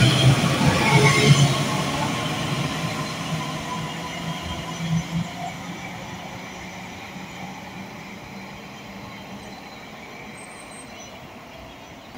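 A passenger train passes through the station at speed: wheel and rail noise with a humming drone, loud at first and dying away over the next several seconds as the train goes off into the distance.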